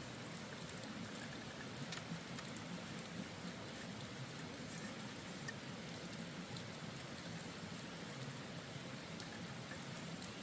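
Steady patter of falling water on a surface, with scattered small drop ticks.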